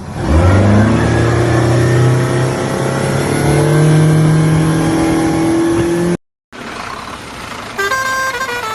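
A motor engine revving, its pitch climbing over about six seconds before it cuts off abruptly. After a short gap and a hiss, a melody of stepped notes begins near the end.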